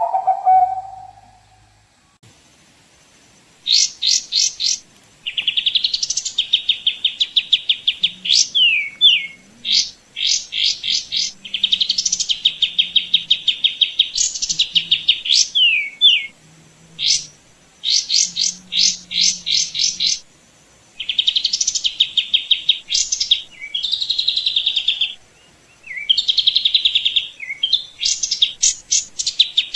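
A songbird singing loud, repeated phrases, each a run of rapid chirps that goes into a fast trill, with short pauses between phrases. A short lower note falls away right at the start, before the singing begins.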